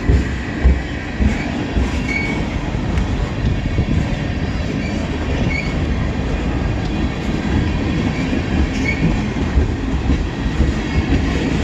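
CN mixed freight train rolling past, just under way after a stop: a steady rumble of the freight cars on the rails, with a few faint, short squeaks from the wheels now and then.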